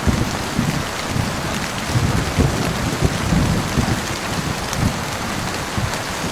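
Steady heavy rain with a low rumble of thunder beneath it.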